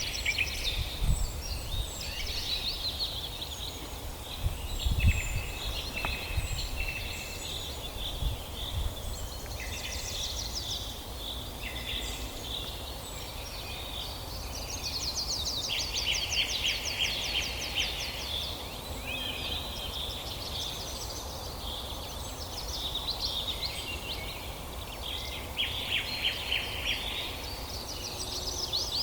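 Several songbirds singing at once in a woodland chorus: overlapping high songs and fast trills, one long rapid trill about halfway through. A steady low rumble runs underneath, with a couple of low thumps in the first few seconds.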